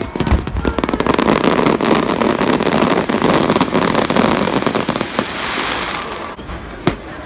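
Fireworks going off: a dense run of rapid cracks and crackle that thins to a hiss about five seconds in, followed by a few separate bangs near the end.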